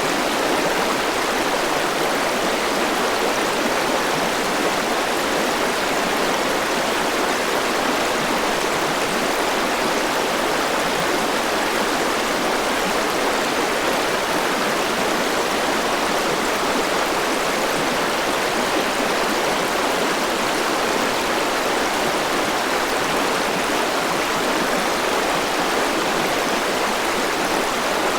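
Forest river rushing over rocks: a steady, even rush of flowing water with no breaks.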